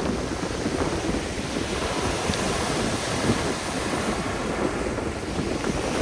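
Strong gusty wind buffeting the microphone over sea surf breaking on the beach, a steady rushing noise.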